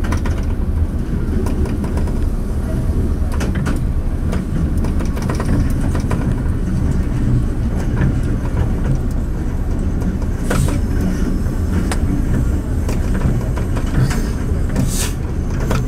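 Train running along the track, heard from inside the front cab: a steady low rumble of engine and wheels on rails, with a few sharp clicks.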